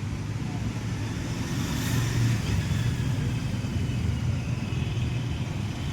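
Maruti Alto 800's three-cylinder petrol engine running steadily, a little louder from about two seconds in.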